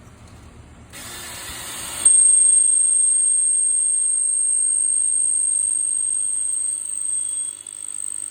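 Power drill boring a hole through a clay flower pot. The motor starts about a second in, and from about two seconds the bit cutting the clay gives a loud, steady, high-pitched whine that eases off near the end as the hole goes through quickly.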